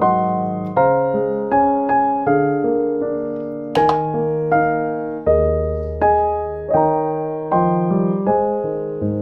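Background piano music: a slow, gentle melody of single notes about every three-quarters of a second, each fading, over held low bass notes.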